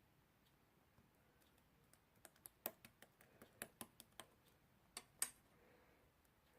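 A run of faint, irregular light clicks, about a dozen of them between two and five and a half seconds in, like keys or a screen being tapped.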